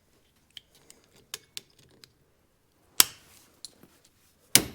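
Hand tools working at a tight cotter pin in a UTV's axle hub: scattered small metal clicks, then a sharp metal clack with a short ring about three seconds in and another near the end.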